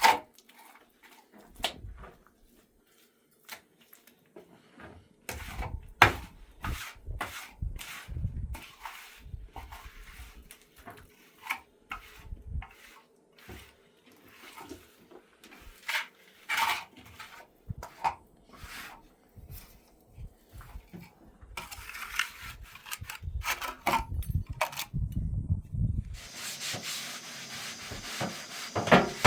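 Irregular knocks and clatters of hard objects being handled, then about three-quarters of the way in a steady rasping rub starts, like wood being sanded or scraped.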